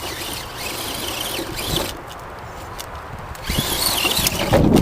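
Electric motor and gear drivetrain of an RC scale crawler truck whining under load as it climbs, with a louder low rumble near the end.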